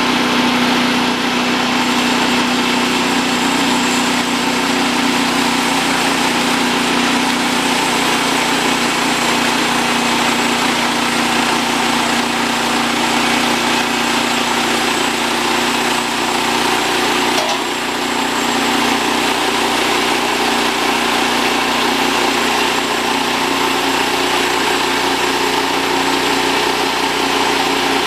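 Milling machinery running steadily and loudly, an even engine-like sound with a steady low hum.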